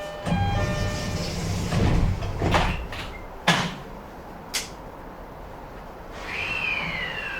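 E131-1000 series train's sliding passenger doors rolling shut just after the door chime ends, with a few knocks and a sharp clunk as they close. About six seconds in, the traction inverter starts up with a smooth falling whine as the train begins to move off.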